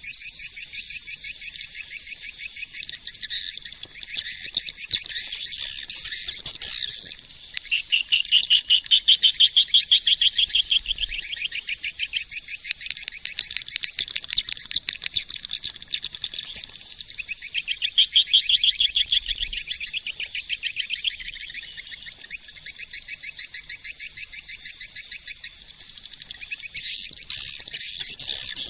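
Swiftlet calling sound of the kind played to lure swiftlets into a nesting house: fast, continuous trains of high twittering chirps, with no low sound at all. It swells louder twice, about a third and two-thirds of the way through.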